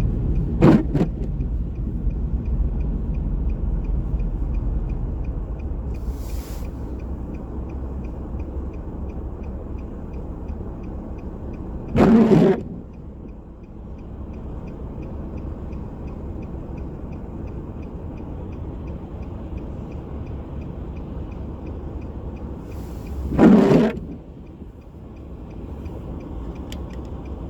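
Street traffic: a steady low rumble of cars that eases off over the first dozen seconds, with two brief loud rushes, one about halfway through and one near the end.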